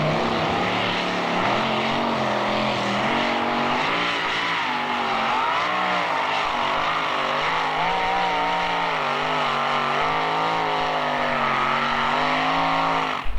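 Two-wheel-drive pulling truck's engine at full throttle under load, its pitch wavering up and down as it drags the sled. It cuts off suddenly near the end.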